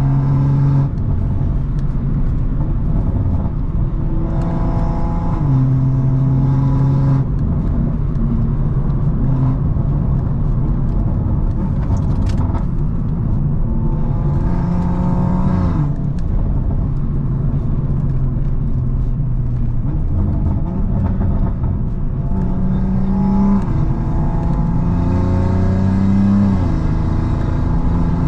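Tuned BMW M340i's turbocharged inline-six engine and exhaust while driving, holding steady tones and then climbing in pitch as it revs up in several places, mostly in the later part.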